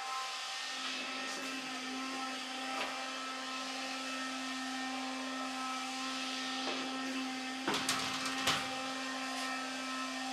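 A small electric motor appliance running steadily with an even hum. A short cluster of knocks and clatter comes about eight seconds in.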